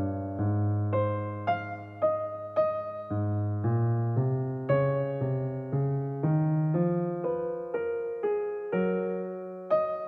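Background music: a slow, gentle piano (or electric piano) melody, notes struck about twice a second and left to ring.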